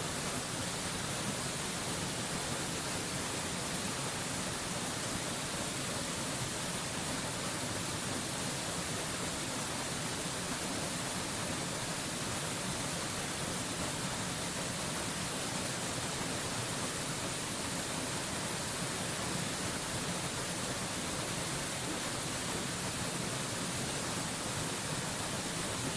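Waterfall rushing steadily, an even hiss of falling water that does not change, brightest in its high hiss.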